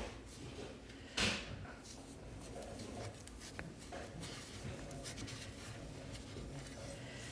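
Quiet handling noise: a short scraping rustle about a second in, then faint scattered knocks and clatter.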